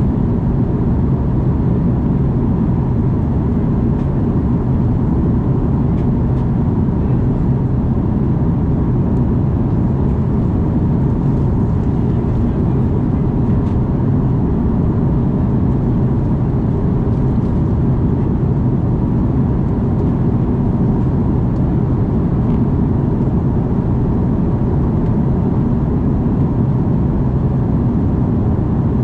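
Steady low rumble of an Airbus A330's engines heard inside the passenger cabin, with a faint steady hum above it.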